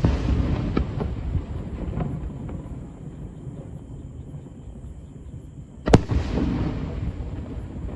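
Aerial fireworks shells bursting: a sharp bang at the start and another about six seconds in, each followed by a rolling rumble that dies away, with a few faint crackles after the first.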